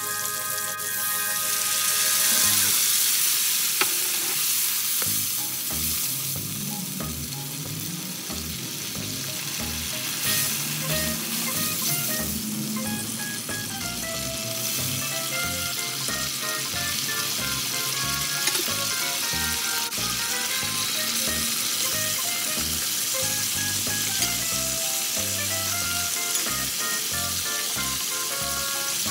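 Food sizzling in oil in a hot wok, first onions and garlic frying, then stir-fried in sweet and sour sauce with vegetables added. The sizzle grows louder about two seconds in. Soft background music plays underneath.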